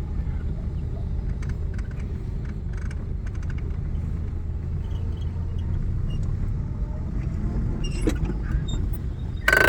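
Car engine running with a steady low rumble as the car moves off slowly, the clutch being let out gently. A few faint clicks, and a short loud knock near the end.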